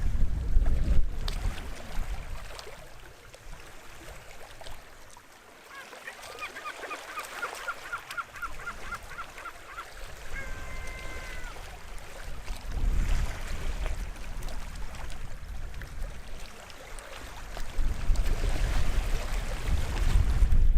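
Waves washing onto the shore, surging loudest at the start, about two-thirds through and again near the end. In the quieter middle a bird calls with a rapid run of short notes, about four a second, for some four seconds, then gives one longer call.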